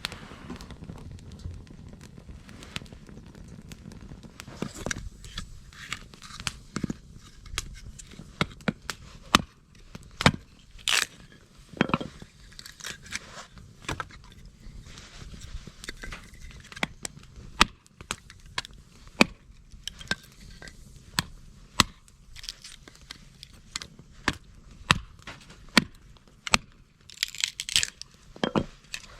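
Irregular sharp snaps and crackles of dry twigs and kindling, sparse clicks with a few louder cracks scattered through.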